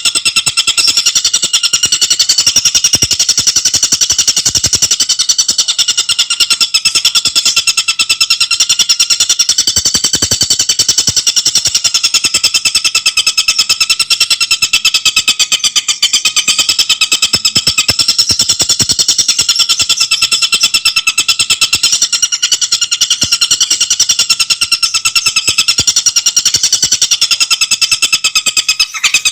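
Tengkek buto bird singing a fast, dense, unbroken rattling chatter, high-pitched and rapidly repeated.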